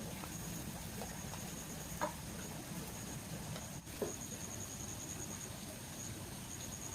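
Insects trilling in a steady run of high pulses over a low outdoor hum, with a few sharp taps about two seconds apart.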